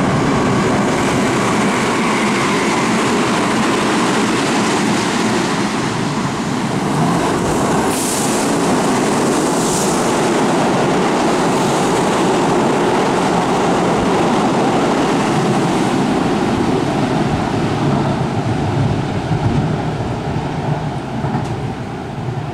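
Kintetsu electric train running through the station at speed without stopping: a loud, steady rumble of wheels and motors, with two brief high hisses about eight and ten seconds in. It eases off near the end as the train passes.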